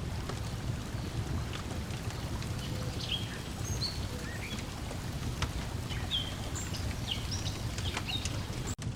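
Layered outdoor ambience: a wood fire crackling in scattered small pops over a steady low wash of lake water lapping, with birds chirping in short calls through the middle. The sound drops out abruptly for a moment near the end.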